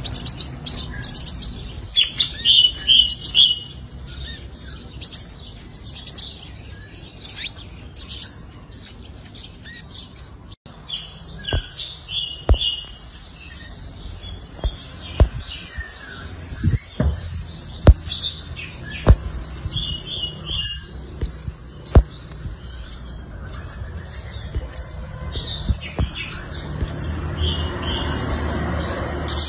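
Sunbird (the Vietnamese 'five-colour sunbird') singing a run of quick, high, thin chirps and trills. Sharp clicks sound every second or so through the middle part.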